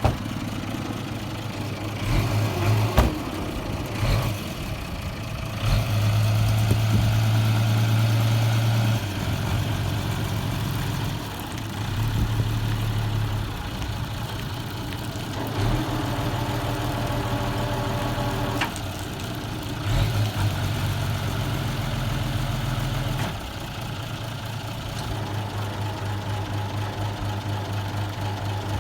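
A vehicle engine idling, its speed and level stepping up and down every few seconds, with a few sharp clunks along the way.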